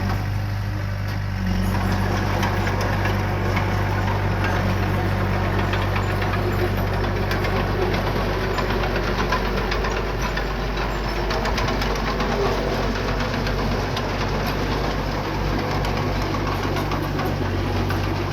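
Diesel engine of heavy earthmoving equipment running steadily, with a dense clatter and scraping noise joining about a second and a half in as the machine works.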